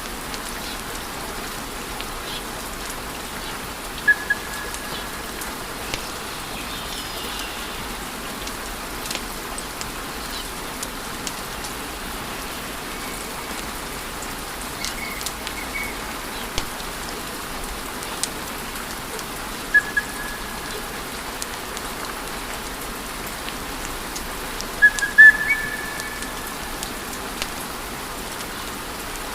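Wood fire burning in a fireplace: a steady hiss of flames with scattered sharp crackles and pops, the loudest cluster near the end. Several brief high whistles come and go over the fire.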